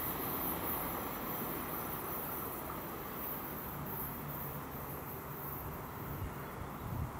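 Rumble of an ICE high-speed train receding into the distance, slowly fading. Insects chirr in a steady high band over it.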